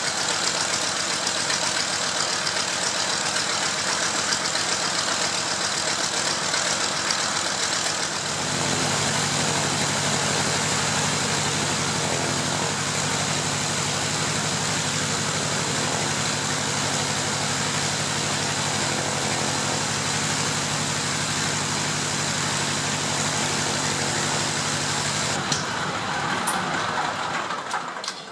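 Mitsubishi A6M Zero fighter's Nakajima Sakae radial engine running steadily at idle. Its tone changes about eight seconds in, with a stronger low beat, and the engine dies away near the end.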